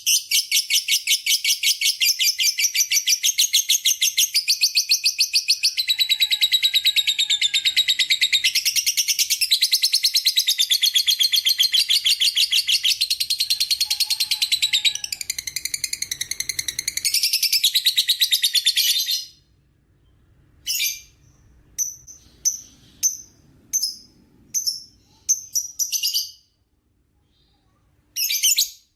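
A lovebird's long 'ngekek': a rapid, unbroken chattering trill of high notes that runs for about nineteen seconds, then breaks into short separate bursts.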